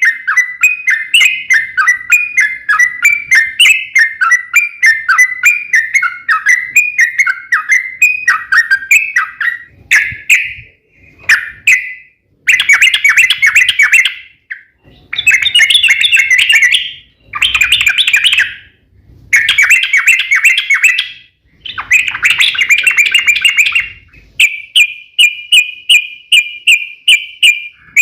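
Yellow-vented bulbul singing loudly in long rapid runs of repeated bubbly notes, about three a second. Around the middle it breaks into several dense chattering bursts with short pauses between them, then returns to an even string of repeated notes.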